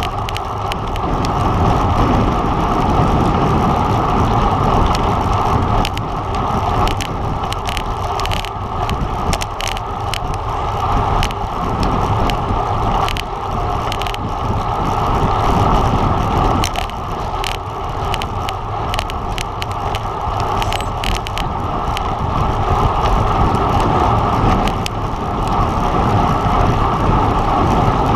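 Steady rushing wind and road noise from a road bike ridden at race speed, with many scattered short clicks.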